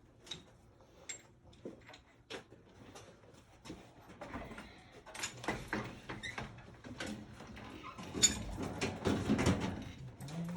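Scattered light clicks and knocks of things being handled, busier and louder about eight seconds in.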